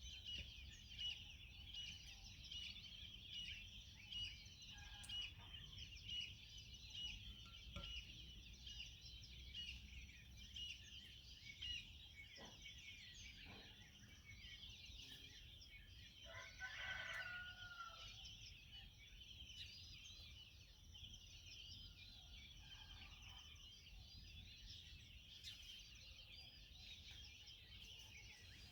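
Many small birds chirping and singing together in a continuous high chorus. Just past the middle, a louder, lower bird call lasts about two seconds.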